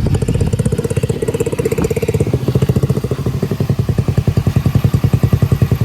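Small gas mini bike engine running with a fast, even putter, and a steady higher hum over it for about the first two seconds.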